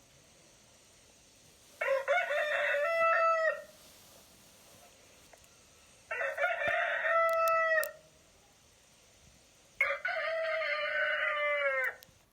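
Rooster crowing cock-a-doodle-doo three times, each crow about two seconds long, with a few seconds of quiet between them.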